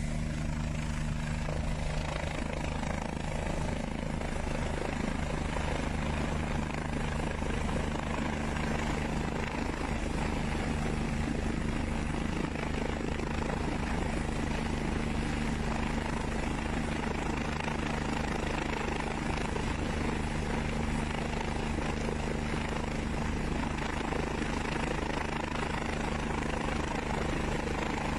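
Rescue helicopter running steadily, its rotor beating fast over a constant low engine drone.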